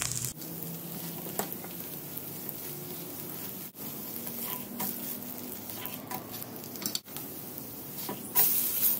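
Semolina cheela (sooji batter pancake) frying in ghee on a hot tawa, sizzling steadily while a spatula presses and moves it about. The sizzle is briefly louder near the end.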